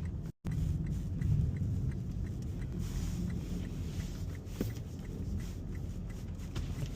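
Steady low rumble of a car driving through a snowstorm, heard from inside the cabin, with the sound briefly cutting out near the start.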